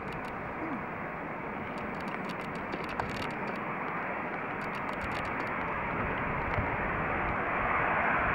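Jet engine noise from a Boeing 747-400 airliner: a steady rush that grows slightly louder toward the end.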